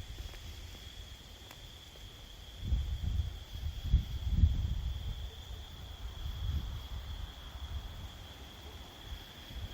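Steady high-pitched chorus of crickets, with low rumbling thumps on the microphone loudest from about three to five seconds in.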